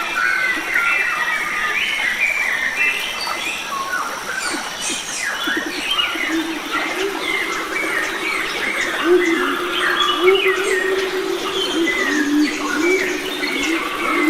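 Chorus of many wild forest birds chirping and singing over one another, with a low wavering cooing line underneath. A thin steady high tone runs under it and stops about halfway through.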